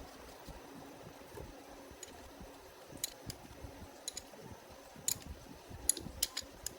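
Scattered light clicks and taps, about eight of them and mostly in the second half, over a faint low rumble.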